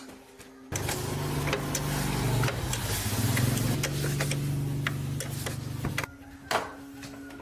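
A motor runs for about five seconds, starting and stopping abruptly, its pitch dipping briefly partway through.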